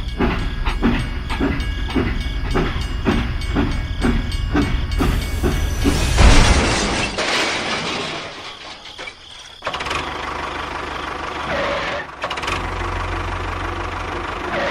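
Small electric motor of a homemade mini machine running, with a rhythmic knock about twice a second, then a rush of gritty noise, then steady running again.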